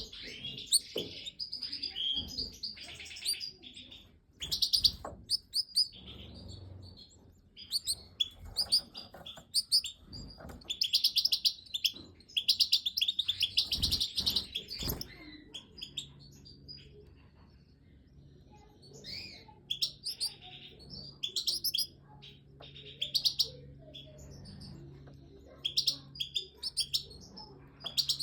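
Goldfinches chirping in repeated bursts of rapid, high-pitched twittering, with shorter single calls in between.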